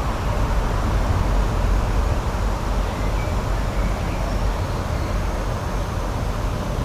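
Steady outdoor rushing noise, loudest in the low end and wavering slightly, with no distinct events.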